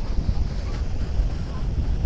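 Wind buffeting the microphone in an uneven, gusting low rumble, over a steady hiss of river waves.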